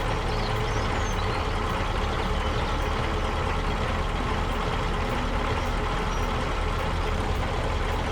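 A big tractor's engine running steadily, an even low rumble.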